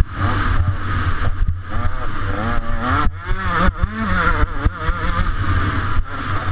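125cc two-stroke motocross bike engine racing. Its pitch climbs and falls again and again, with several brief drops where the throttle is chopped.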